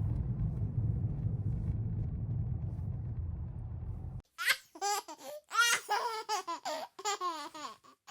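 Low steady road rumble inside a moving car, cut off sharply about four seconds in. It is followed by a high-pitched voice laughing in short gliding peals.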